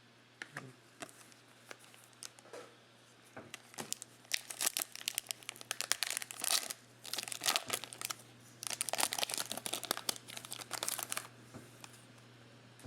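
Trading card packs being torn open and their plastic wrappers crinkled, in two spells of dense crackling, the second starting about 8.5 seconds in.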